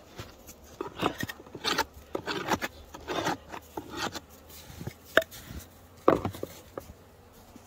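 A run of irregular knocks and scrapes on wood, as wooden beehive parts are handled during a hive check, with the sharpest knock about six seconds in.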